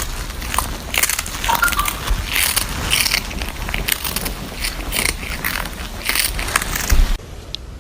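Crunching of crunchy food being chewed, many irregular crisp cracks in quick succession, which stop abruptly about seven seconds in.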